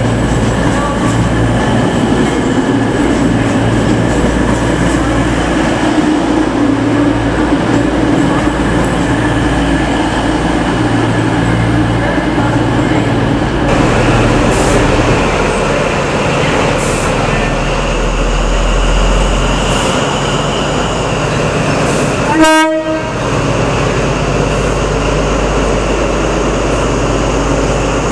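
Loud passenger train running on the rails with a steady rumble of rail and engine noise. A brief toot sounds about two-thirds of the way through.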